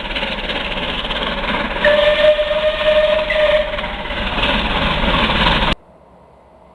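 Train passing with loud, steady rail and running noise; about two seconds in, a single steady horn note sounds for under two seconds. The sound cuts off suddenly near the end, leaving a much quieter background with a faint tone.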